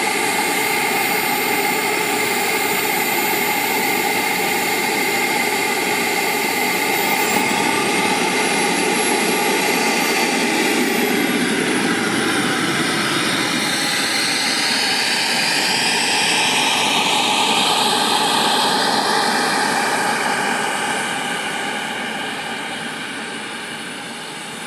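Xicoy model jet turbine of a Sebart Hawk RC scale jet in flight: a steady roar with a high whine that climbs and falls again around ten seconds in, then drops in pitch as the jet goes past and fades away near the end.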